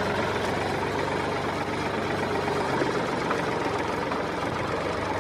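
A motor running steadily: an even low hum with a noisy, whirring layer above it and no change in pace.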